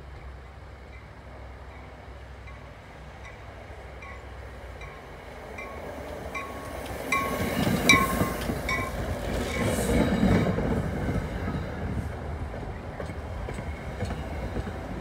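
A train passing, its wheels clicking over the rail joints in an even rhythm that grows louder and quicker, loudest about eight to ten seconds in, then easing off, over a low rumble.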